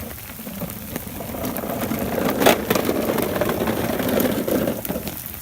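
Plastic wheels of a child's ride-on toy car rumbling as it rolls, building up over a few seconds and dropping away near the end, with one sharp knock about halfway through.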